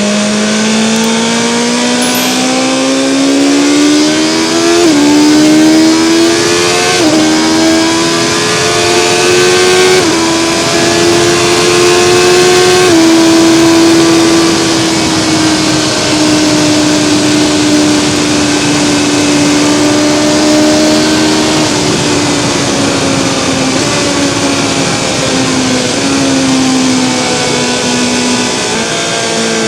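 BMW S1000XR's inline-four engine pulling hard through the gears, its pitch climbing and dropping sharply at each upshift about four times, then holding steady revs at speed and easing slowly lower, with wind rush over it.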